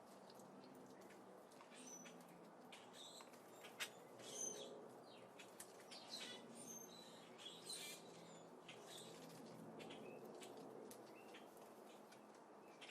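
Small birds at a seed feeder: faint scattered chirps and high twitters mixed with short clicks of pecking at seed. The loudest is a sharp click about four seconds in.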